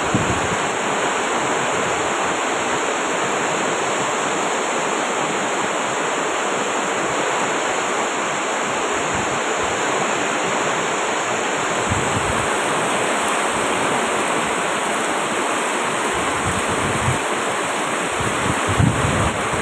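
Heavy rain pouring steadily, a dense even hiss, with a few low bumps near the end.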